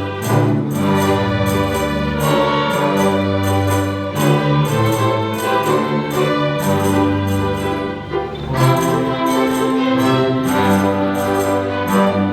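Youth orchestra playing a tune in sustained, overlapping notes over a steady beat.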